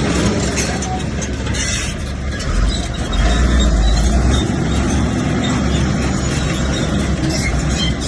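Komatsu bulldozer's diesel engine running under work, a heavy low rumble that swells about three seconds in.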